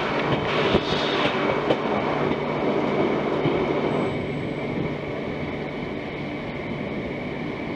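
Train running on the rails: a steady rumble and rail noise with a few sharp clicks in the first two seconds, easing slightly about halfway through.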